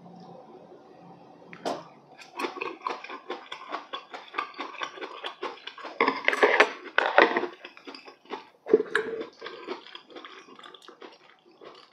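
Close-miked chewing of braised chicken (jjimdak): wet, crackly mouth sounds that start about two seconds in and are loudest around the middle, with one sharp click a little later. A faint steady hum comes before the chewing starts.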